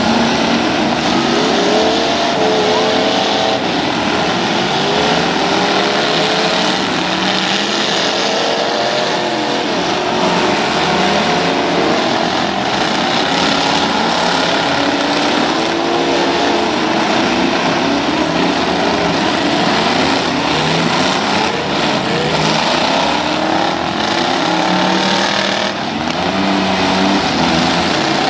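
Several full-size truck and van engines revving at once in a demolition derby, their pitches repeatedly climbing and falling over one another above a steady wash of noise.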